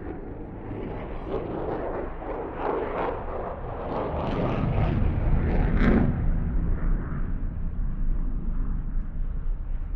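Military fighter jet's engine noise heard from a distance, building to a peak about six seconds in and then slowly easing, with sharp crackles near the peak.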